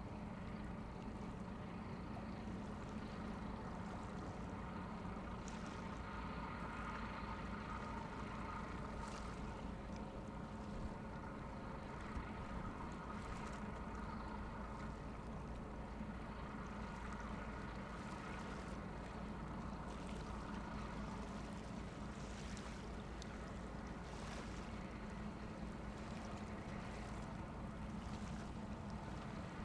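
Marine diesel engines droning steadily, a low hum under a wash of wind and water noise.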